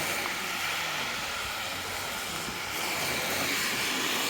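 Steady outdoor street noise, a continuous hiss of passing traffic.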